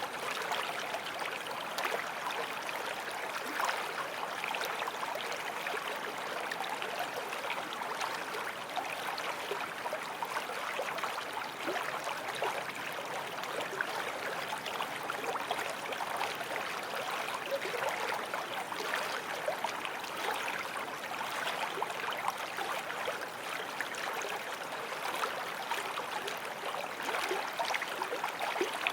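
Forest stream flowing, a steady, unbroken rush and babble of running water.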